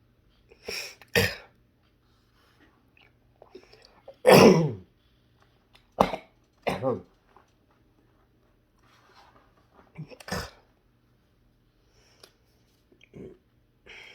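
A man coughing, gagging and clearing his throat in a string of short bursts, the loudest about four seconds in. He puts the gagging down to his sinuses.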